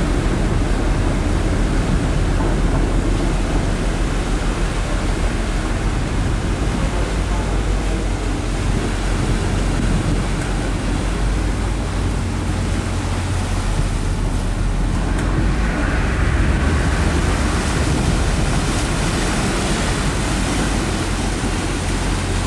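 Car ferry Motor Vessel Nantucket under way: a steady low engine drone with the rush of wind and water over it. The hiss of wind and water grows louder about sixteen seconds in.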